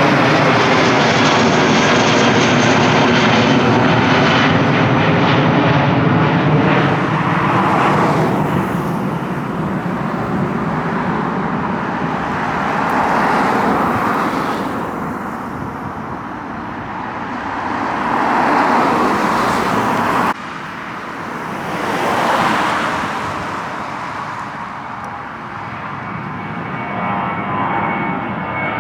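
Jet airliner climbing out low after takeoff. Loud engine noise with falling whines at first, then a fading rumble that swells and ebbs as it departs. It drops abruptly about two-thirds of the way in, and a fresh high whine rises near the end.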